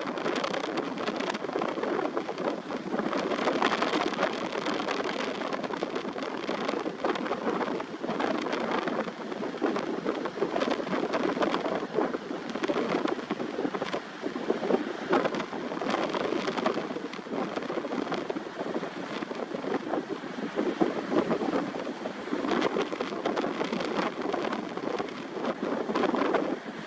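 Strong wind and rough sea: a steady, rushing noise that swells and eases over and over.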